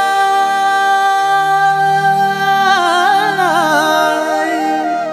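Kumaoni nyoli folk singing: a male voice holds one long note, then breaks into a wavering, ornamented melodic run about halfway through, over a steady low accompaniment.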